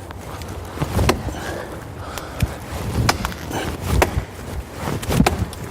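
Axe chopping into the base of a dead standing pine: a series of sharp blows at an uneven pace, roughly one every half second to a second.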